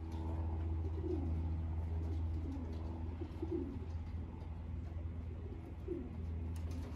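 Racing pigeons cooing: a few wavering coos about two seconds apart, over a steady low hum.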